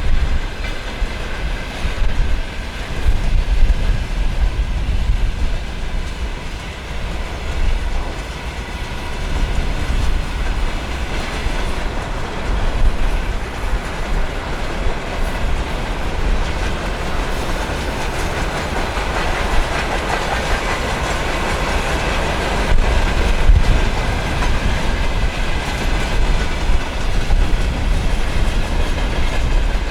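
Train rolling past on the rails, wheels clattering over the track in a steady, continuous rumble.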